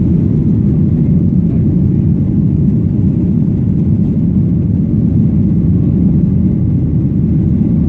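Boeing 737-800 cabin noise: a steady, loud low rumble of the CFM56 engines and airframe heard from inside the passenger cabin.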